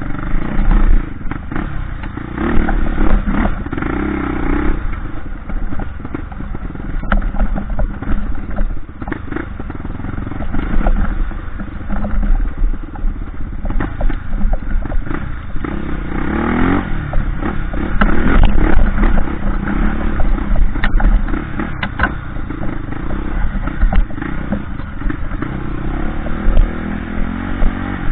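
Off-road motorcycle engine running on a trail ride, revving up around two seconds in and again around sixteen seconds, with frequent clatter and knocks over rough ground.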